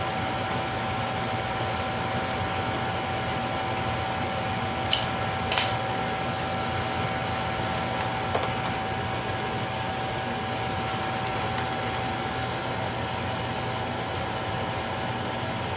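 Beckett oil burner running with a steady roar and a constant high-pitched whine, which the technician takes for a bad fuel pump. Two short clicks about five seconds in.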